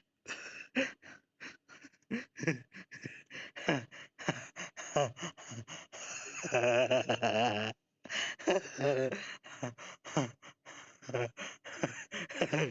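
A person laughing hard in rapid, breathy bursts with gasps between them, breaking into a longer wavering laugh about halfway through.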